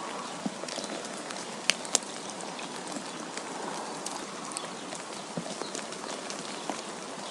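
Wind blowing in a snowstorm: a steady hiss with scattered light ticks, and two sharper clicks about two seconds in.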